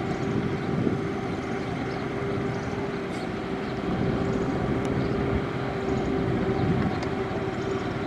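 Heavy construction machinery running steadily: a constant engine drone with a steady hum.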